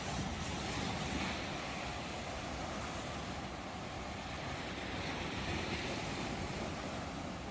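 Ocean waves breaking on a shore: a steady rushing surf noise that swells slightly about a second in and again near six seconds.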